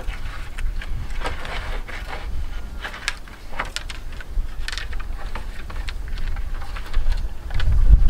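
Bamboo being handled and worked: irregular light clicks and knocks, over a low rumble of wind on the microphone.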